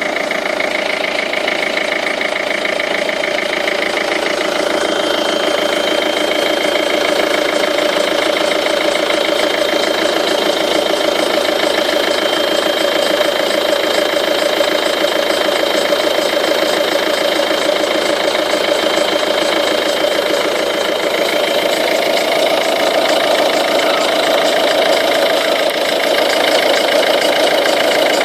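Ford Focus 2 1.6 TDCi four-cylinder diesel idling steadily from cold, with an odd rhythmic noise from the right side of the engine that the owner likens to a tyre being pumped up with a hand pump. The cause is unknown; the owner suspects low power-steering fluid, the timing belt, a failing water pump or the air-conditioning compressor.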